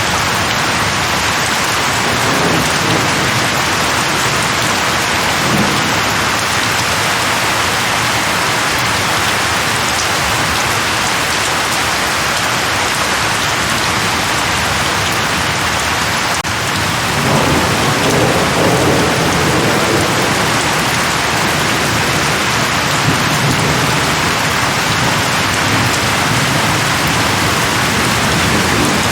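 Steady heavy rain falling on leaves, with low rolls of thunder rumbling under it; the longest roll starts a little past the middle.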